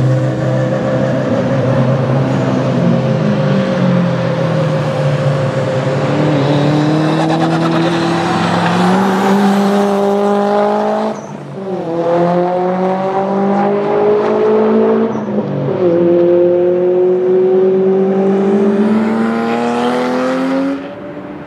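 Subaru Impreza WRX STI's turbocharged flat-four engine pulling hard under full throttle, rising steadily in pitch through the gears. Upshifts drop the pitch sharply about halfway through and again a few seconds later. The throttle lifts off shortly before the end.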